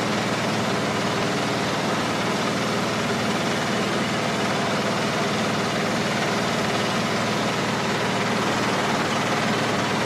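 Diesel engine of a diesel-powered pellet mill running steadily, a dense, even mechanical noise with a low engine hum underneath.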